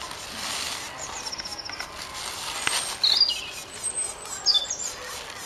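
Small birds calling in the background over steady outdoor noise: a quick high trill about a second in, then a few short falling whistles.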